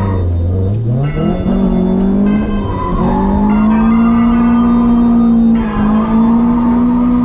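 Drift car's engine revving: the revs sag, climb about a second in and are then held high and steady, with a brief lift near the end, as when the car is held in a drift.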